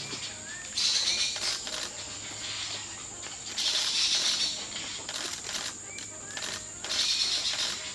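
Insects droning, with a steady high thin tone and a hissing surge about every three seconds. A few faint short rising chirps sound between the surges.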